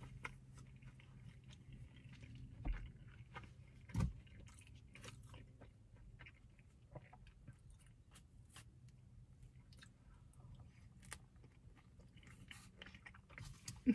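A person chewing and biting bread dipped in broccoli cheddar soup: soft wet mouth sounds and small crunches, with a couple of louder knocks a few seconds in and a low steady hum underneath.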